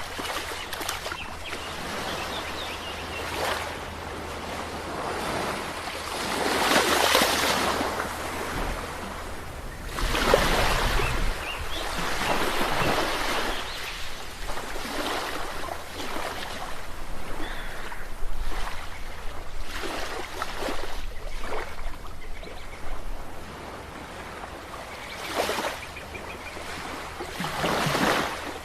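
Ocean waves breaking and washing on a shore, a steady rush of surf that swells every few seconds as each wave comes in.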